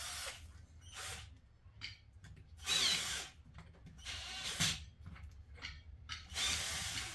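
Power drill run in about five short bursts, each under a second, with brief pauses between them.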